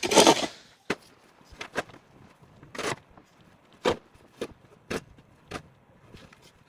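Snow shovel scooping and scraping through snow in short separate strokes, roughly one a second, the loudest right at the start.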